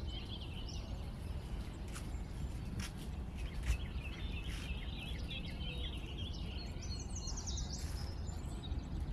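Birds chirping over and over, over a steady low rumble of outdoor noise, with one short thump a little under four seconds in.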